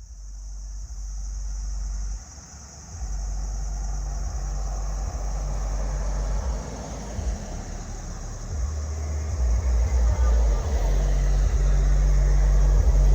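A motor vehicle with a low rumble that grows louder toward the end.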